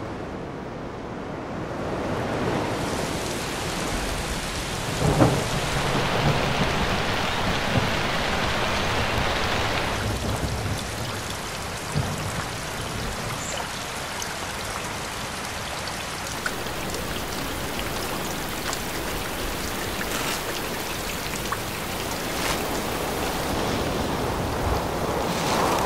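Steady heavy rain, with a low rumble of thunder about five seconds in.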